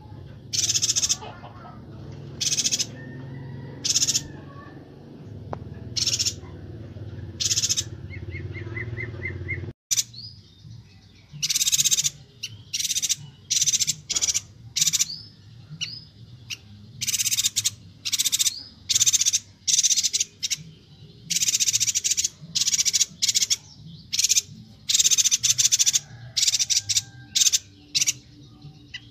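Chestnut-crested yuhina (Bornean yuhina) calling: short, high-pitched chattering calls, spaced about a second apart at first, then coming thick and fast after a brief break about ten seconds in. A low hum sits under the first part.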